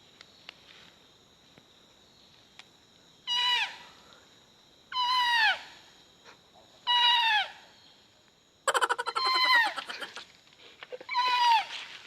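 A barking-deer (kijang) call imitated by blowing on a leaf held to the lips: five short bleats, each starting high and falling in pitch, a second or two apart. The fourth comes out buzzy and rattling.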